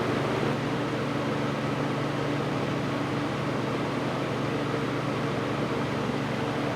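Vintage Dayton 3-speed box fan with a 12-inch plastic blade running: a steady rush of air over a low motor hum.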